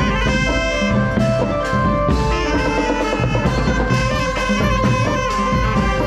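Thai brass band (trae wong) playing: horns hold and change sustained notes over a steady drumbeat.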